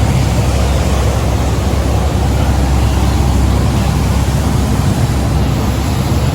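Viking sportfish yacht under way: a steady, loud low engine drone mixed with an even rush of wind and water.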